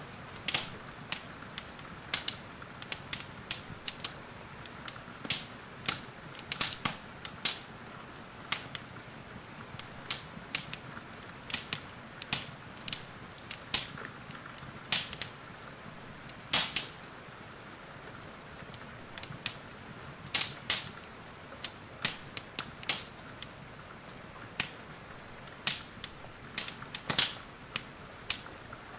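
Wood fire crackling in a fireplace: irregular sharp pops and snaps, a few a second and some much louder than others, over a steady soft hiss of rain.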